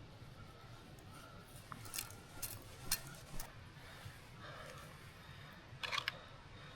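A few faint, sharp clicks and taps, most of them a couple of seconds in and again near the end, from cooking gear being handled, over a quiet background.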